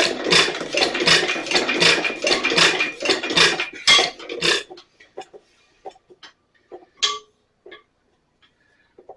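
Nelson Little Jumbo 1 1/2 HP hit-and-miss engine being cranked over by hand without firing. It makes a rhythmic chuffing of air and clinking parts, about two and a half strokes a second, then slows to scattered clicks as the flywheel coasts down and stops partway through. The failed start is down to fuel not yet reaching the gas-valve mixer.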